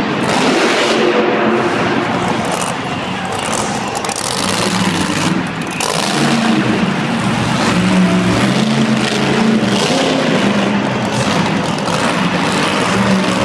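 Monster truck engine running loud and revving, its pitch rising and falling repeatedly.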